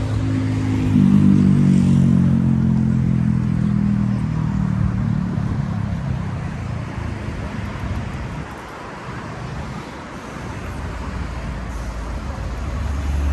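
A motor vehicle passing close by on the road, its engine swelling about a second in and fading away over the next several seconds, over steady street traffic.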